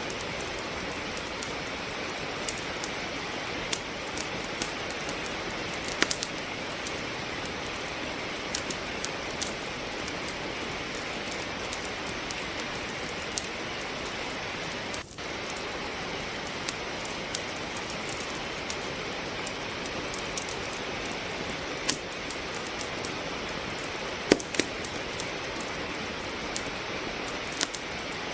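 Steady rain mixed with a wood fire crackling in a fireplace: scattered sharp pops and snaps over the even hiss of the rain, the loudest pops about 6 and 24 seconds in. About halfway through the sound dips briefly.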